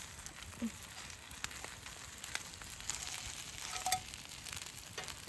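Food frying in a small cast-iron skillet: a steady sizzle with scattered small pops and ticks.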